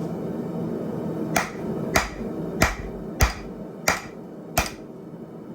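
Blacksmith's hammer striking steel on an anvil: six sharp, evenly paced blows, a little less than two a second, over a steady low background noise.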